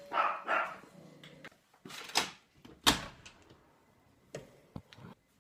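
A handful of sharp knocks and clicks, door-like, the loudest about three seconds in, after a short louder sound just at the start.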